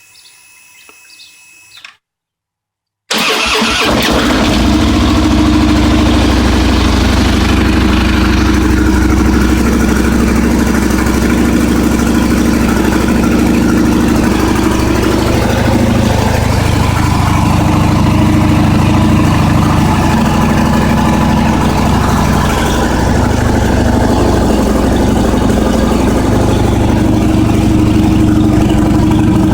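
A 2013 Harley-Davidson FLHTK's V-twin engine, breathing through its stock Harley-Davidson slip-on mufflers, comes in abruptly about three seconds in and then runs steadily at idle.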